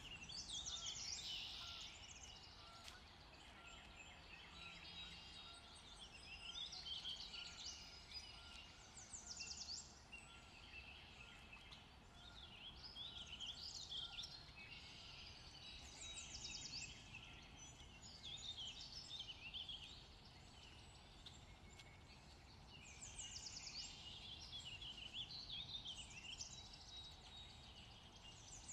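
Faint chirping of several small birds, coming in quick busy bursts every two to three seconds.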